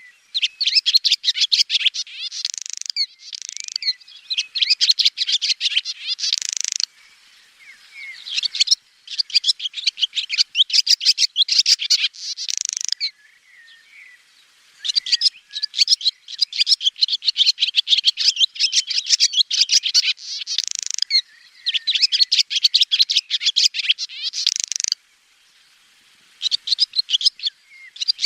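Swallow song: long runs of rapid, high-pitched twittering and chirps, broken by a few short pauses.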